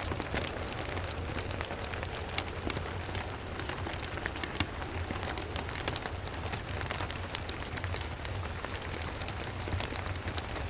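Steady rain mixed with a wood fire crackling: an even hiss sprinkled with many small sharp clicks and pops, over a low steady rumble.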